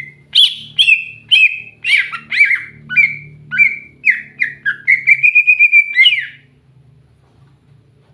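Cucak hijau (green leafbird) singing: a loud run of varied, sliding chirps about two a second, ending in a short rapid trill and a final upslurred note about six seconds in.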